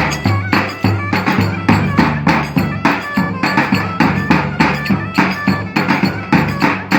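Live Turkish folk dance music from a wedding band: loud percussion strikes in a fast, steady beat under held melodic tones.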